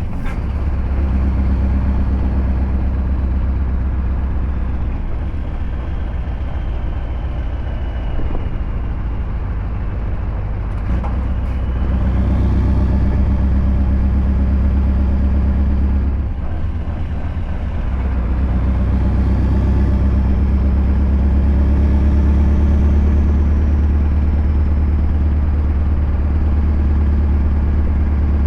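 Scania R580 V8 diesel with an 8-inch straight-pipe exhaust, running steadily at low revs. The engine note dips briefly about sixteen seconds in, then builds again.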